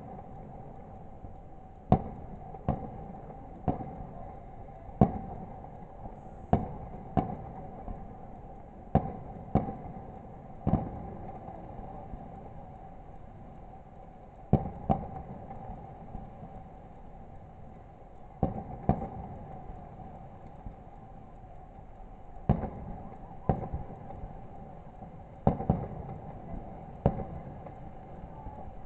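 Fireworks display: sharp bangs of shells bursting, singly or in quick pairs, about twenty in all, with a few pauses of several seconds between groups. A steady tone runs underneath.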